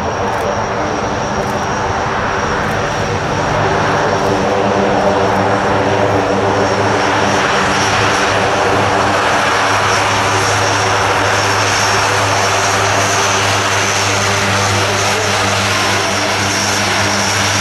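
Lockheed Martin C-130J Hercules running its four Rolls-Royce AE 2100 turboprop engines: a steady propeller drone with a thin high turbine whine, growing louder about four seconds in and then holding steady.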